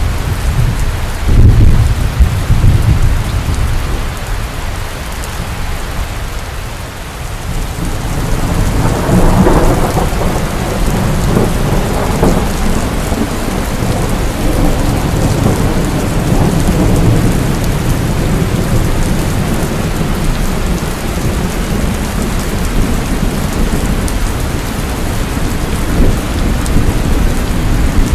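Heavy rain falling steadily, with thunder: a loud low clap a second or two in, then a long rumble that builds from about eight seconds in and slowly dies away under the rain.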